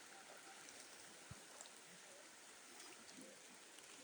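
Near silence: a faint steady hiss with one soft tick about a second in.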